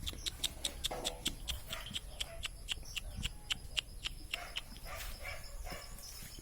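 Dog whimpering faintly now and then over a fast, even clicking of about four or five clicks a second.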